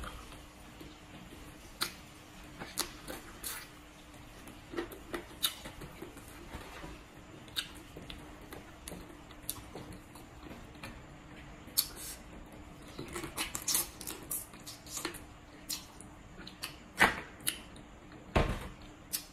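Close-miked chewing of papaya salad, with many irregular sharp crunches and clicks, over a faint steady hum.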